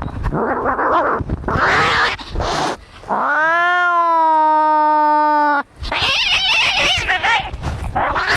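Cats fighting: harsh hissing and screeching, broken in the middle by one long yowl of about two and a half seconds that rises in pitch and then holds steady.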